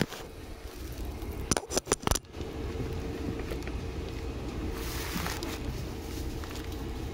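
Seibu 2000 series electric train running, heard from on board: a steady rumble of the car in motion, which grows louder about two seconds in with a steady hum joining it. A quick run of sharp clicks and knocks comes just before the rise.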